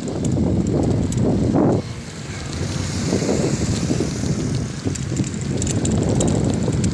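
Wind rumbling and buffeting the microphone on a moving bicycle, with a higher hiss swelling about two seconds in and fading a few seconds later.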